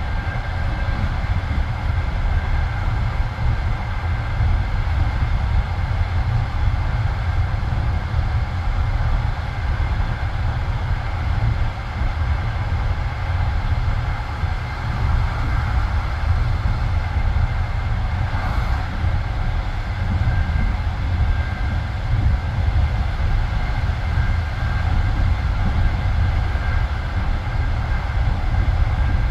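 Passenger train carriage running at speed on the open line: a steady rumble of wheels on rails with a hiss above it and a faint steady ringing tone.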